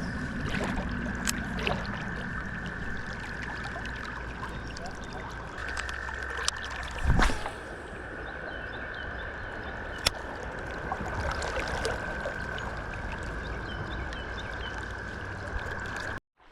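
Creek water running, with a frog's steady high trill carrying on throughout. There is a single thump about seven seconds in and a few light clicks.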